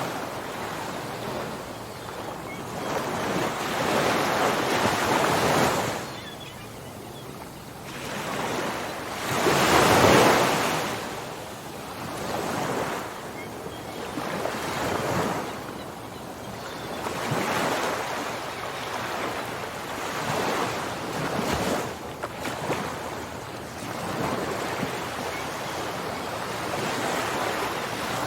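Ocean surf: waves breaking and washing in, swelling and falling every two to four seconds, the biggest about ten seconds in, with some wind on the microphone.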